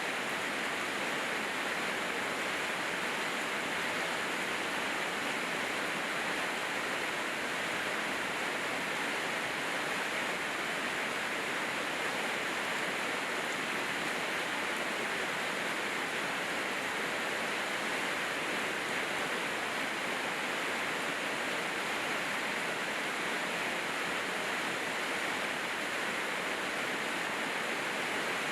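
Steady heavy rainfall, a dense even hiss that holds at one level throughout.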